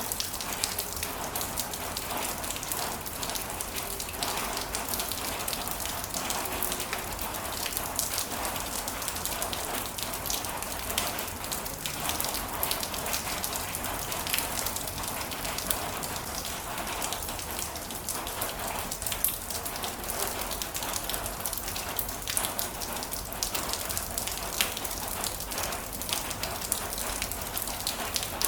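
Heavy rain falling, a steady hiss of drops with many sharp individual drop strikes on a surface.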